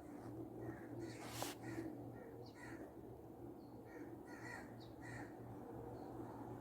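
Faint bird calls, a scatter of short calls over a low steady hum, with one brief rustle about a second and a half in.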